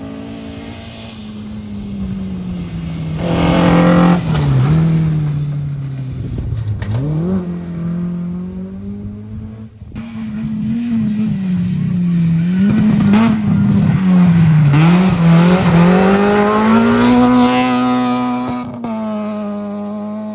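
Rally cars on a gravel special stage passing at full throttle, engine pitch climbing and dropping again and again through gear changes and lifts. The sound breaks off abruptly about ten seconds in as a second car takes over, and is loudest as each car passes close.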